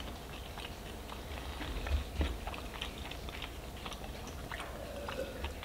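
Close-miked chewing of French fries and fried chicken: quiet, scattered wet mouth clicks and soft bites.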